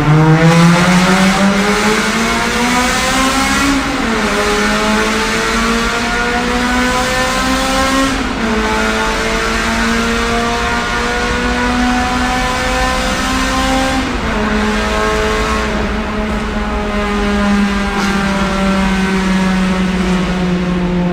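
Honda Integra DC5's 2.0-litre four-cylinder i-VTEC engine accelerating hard through the gears on a straight-piped exhaust with a Zero Fighter rear section. The exhaust note climbs in pitch, then drops at each of three upshifts.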